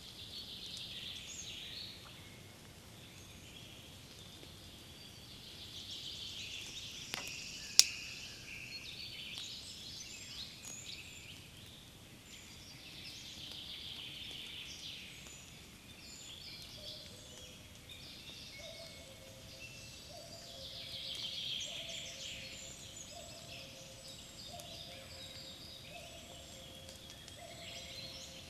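Woodland birds singing in a spring forest, a chorus of high songs that swells every few seconds. A sharp click about eight seconds in is the loudest moment, and in the second half a lower two-note call repeats steadily beneath the song.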